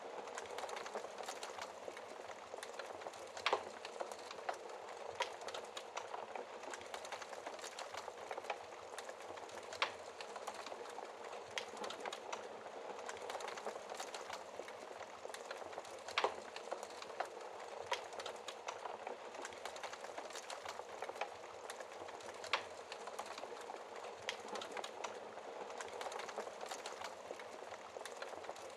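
Wood fire in a fireplace crackling: a steady soft hiss with frequent small snaps and a few louder pops, the loudest about 3.5, 10 and 16 seconds in.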